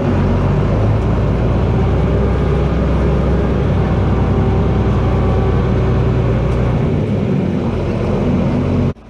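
John Deere 4320 tractor's six-cylinder diesel engine running steadily, cutting off abruptly near the end.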